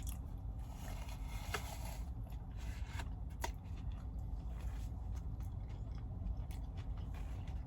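Scattered light clicks, crackles and scrapes of close handling over a steady low hum.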